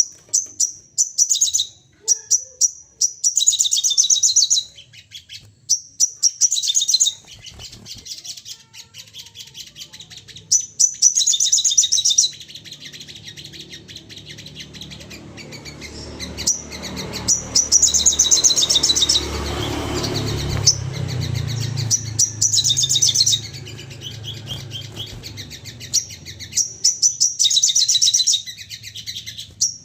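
Sogon songbird calling in repeated bursts of rapid, high chattering notes, each burst a second or two long with short gaps between. A low rumble rises under the calls in the middle.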